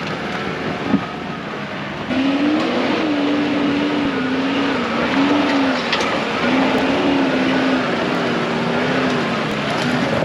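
4WD engine working under load up a steep rocky track, its revs rising and falling with the throttle and getting louder about two seconds in, with a few sharp clicks over the top.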